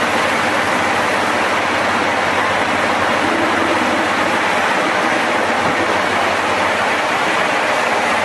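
Wood chipper running steadily: a loud, even machine noise with a faint engine hum beneath.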